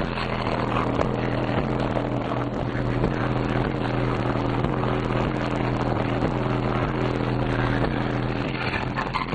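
Car subwoofers, two 12-inch Power Acoustik FUBR and two 12-inch Kicker CVR in a ported enclosure, playing loud bass-heavy music. A steady deep bass note runs under a pattern of higher notes that changes about twice a second.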